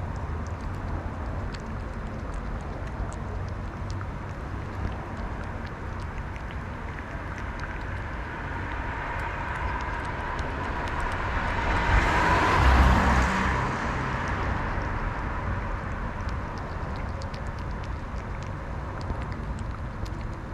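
Steady outdoor rumble with a vehicle passing by, growing louder to a peak about twelve seconds in, then fading away.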